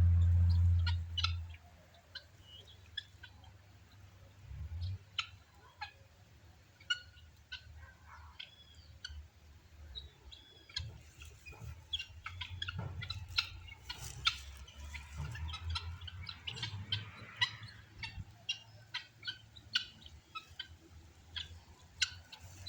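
Birds chirping and calling repeatedly: many short, high calls with a few rising and falling notes, over a low rumble that is loudest in the first second and a half.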